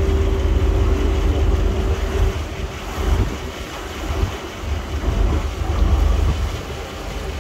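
Boat engine running with a low rumble, wind buffeting the microphone and water washing past. A steady hum fades out a couple of seconds in, and the rumble eases in the middle before building again near the end.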